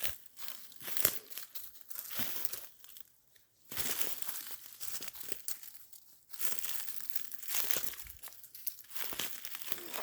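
Footsteps crunching and rustling through dry leaf litter and brush, in irregular steps that stop for a moment about three seconds in.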